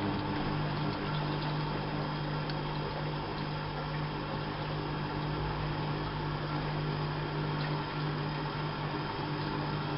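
Bauknecht WAP 6460 washing machine running with a steady hum.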